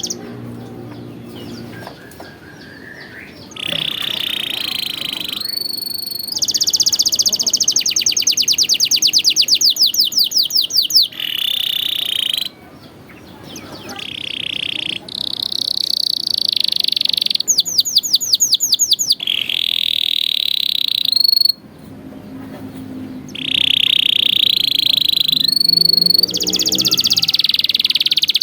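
Domestic canary singing a long song of trilled phrases: runs of fast repeated notes and held rolls, phrase after phrase with short breaks between. A lower, pitched sound runs underneath near the start and again about three quarters of the way through.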